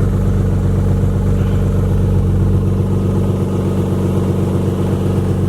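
Nissan 350Z's 3.5-litre V6 idling steadily through a freshly repaired exhaust, with the broken test pipe welded and the flex pipe replaced by solid pipe. The idle is quiet and sounds stock, the exhaust leak gone.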